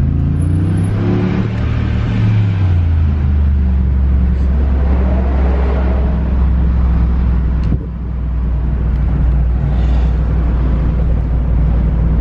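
Sports car exhaust rumbling deep and low at low revs. The pitch shifts over the first three seconds, then holds steady, with a brief drop about eight seconds in.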